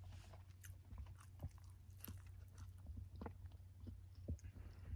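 A person chewing food with faint crunching: scattered small clicks of the chews, over a low steady rumble.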